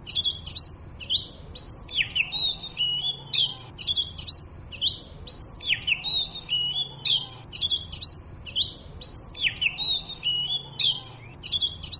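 Oriental magpie robin singing: a steady string of clear whistled notes and quick sweeping phrases, with the same song pattern returning about every three and a half seconds.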